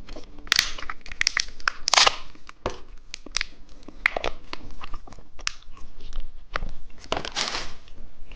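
Plastic candy wrapper being torn open and crinkled, a run of short sharp crackles with a few longer rustles.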